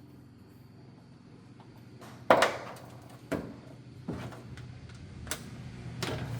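Low room noise, then four sharp knocks of hard objects, about a second apart, the first the loudest.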